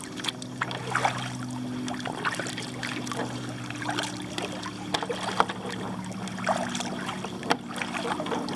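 Kayak paddle strokes dipping into the water with splashes and drips, over a steady low hum from a nearby boat's motor.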